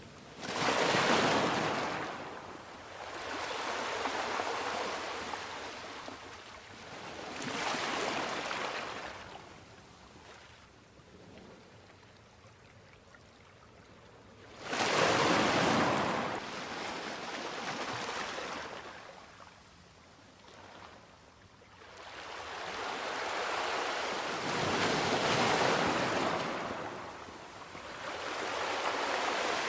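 Sea waves breaking on a beach, the surf swelling and washing in surge after surge with quieter lulls between. The strongest surges come about a second in and about fifteen seconds in.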